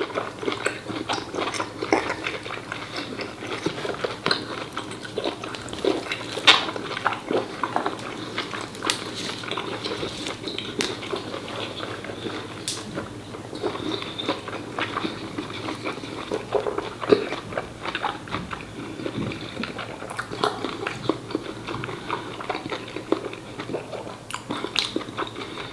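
A person chewing a mouthful of braised pork phá lấu with many short, wet smacks and clicks of lips and teeth.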